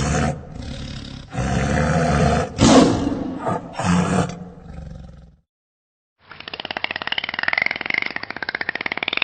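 A big cat roaring: several loud, rough roars over about five seconds. After a short silence, a different animal call starts, made of rapid buzzing pulses that waver in pitch.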